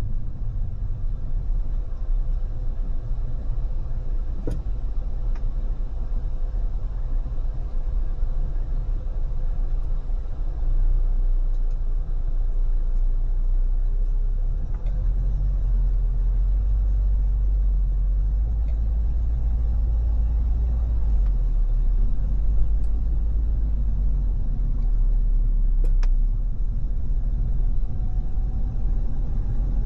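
Steady low road and wind rumble of a car cruising on a freeway, with a few faint ticks and a faint rising whine near the end.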